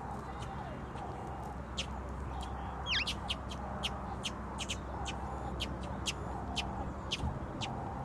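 Small birds chirping: many short, sharp high chips, with one downward-sliding whistled call about three seconds in, over a steady low background rumble.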